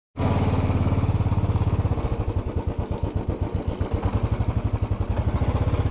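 Motorcycle engine running with a steady, even beat of low exhaust pulses, easing to a slightly slower beat about two seconds in.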